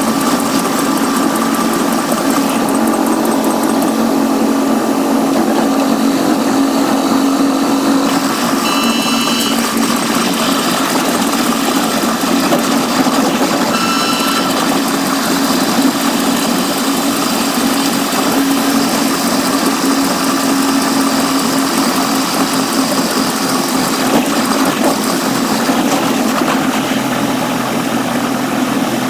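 Steady running noise of a Caltrain commuter train, heard from the cab car at speed, with brief high-pitched tones about nine and fourteen seconds in.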